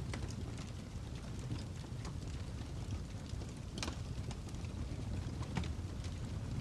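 Fire crackling: sharp pops scattered over a steady low rumble, the strongest pop nearly four seconds in.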